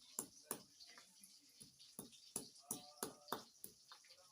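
Faint, irregular sharp clicks and taps, about a dozen, with a short pitched sound about three seconds in.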